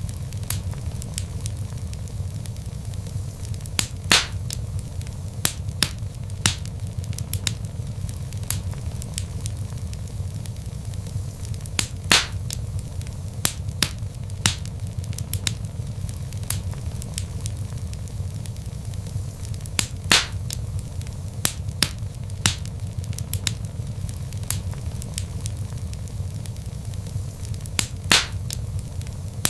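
Wood logs burning in a fireplace: a steady low rumble of flame with frequent small crackles and a louder pop about every eight seconds.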